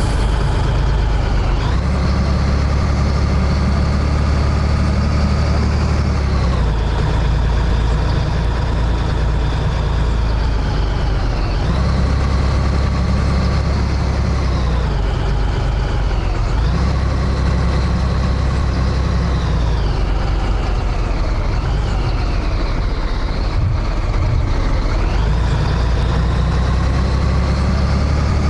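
Scania 113H truck's diesel engine pulling under load, its pitch climbing and then dropping sharply again and again as it runs through the gears.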